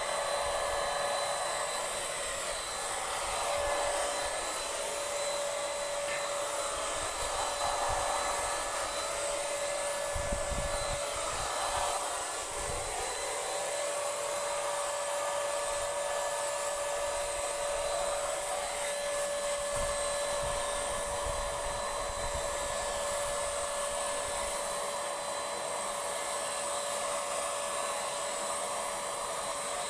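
Handheld electric paint sprayer (Paint Zoom) running steadily: a steady motor whine over the hiss of air.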